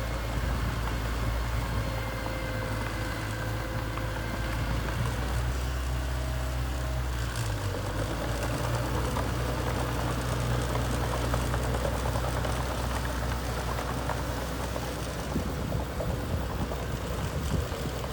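Diesel engine of a mini bulldozer running steadily, its engine note shifting about seven seconds in.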